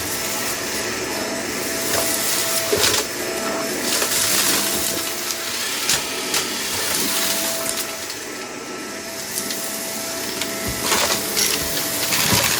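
Vacuum cleaner running with a steady motor whine, crackling and rattling as it sucks up loose debris.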